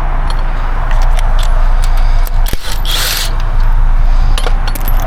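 Short metallic clicks and clinks of tools being handled during a roadside tire change, over a steady low hum, with a brief hiss about three seconds in.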